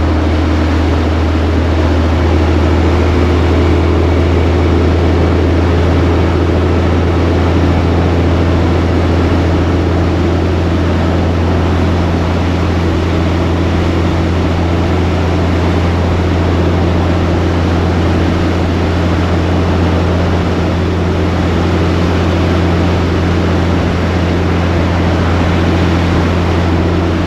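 Diesel truck engine running at a steady cruise, heard as a loud, even low drone inside the cab, with no change in pitch.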